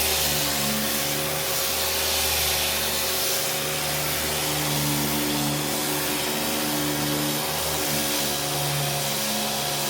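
A power sander running steadily with a loud, even hiss, shifting low tones coming and going underneath.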